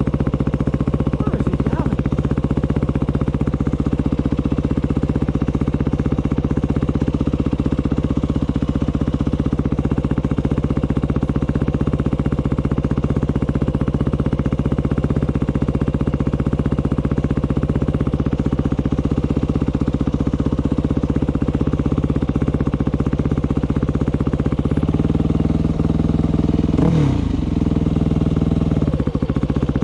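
Dirt bike engine running steadily under way on a trail, with a brief rise and fall in revs near the end.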